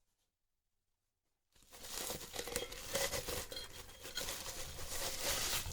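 Dead silence for about the first second and a half, then packaging being unwrapped by hand, crinkling and tearing with many small crackles.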